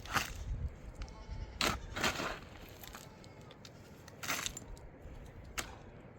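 A few sharp knocks or snaps, with faint bleating of livestock between them.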